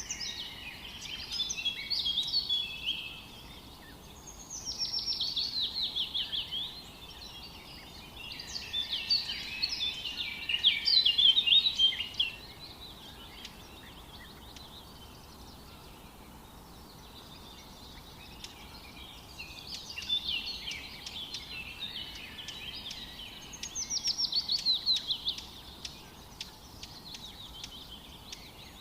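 Songbirds singing in separate phrases every few seconds, some of them quick falling trills, over a steady faint background hiss.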